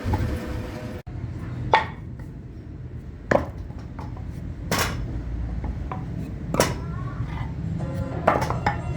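Sharp knocks of hand-tool strikes at a wheelwright's work, five single blows spaced about one and a half seconds apart over a low steady background. The sound drops out briefly about a second in.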